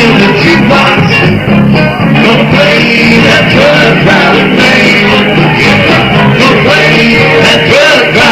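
Band playing an instrumental break of a country song: guitar lead over a steady beat.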